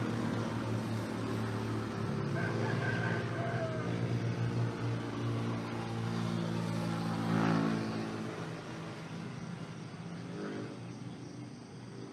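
A motor vehicle's engine running steadily nearby, loudest a little past the middle and then fading away, with a rooster crowing about two and a half seconds in.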